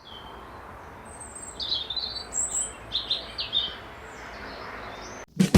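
Birds chirping outdoors, a run of short high calls over a steady background; near the end the ambience cuts off and guitar music starts.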